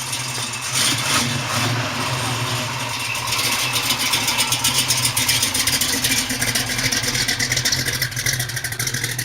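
1948 Ford pickup truck engine running with a fast, even clatter of firing pulses, getting louder about three seconds in.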